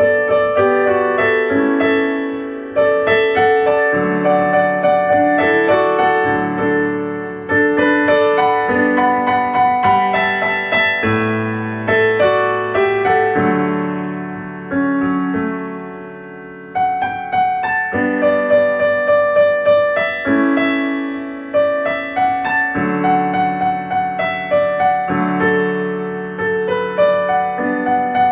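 Gentle keyboard music: a piano or electric piano playing struck notes and chords that ring and fade, with a few brief pauses where the notes die away.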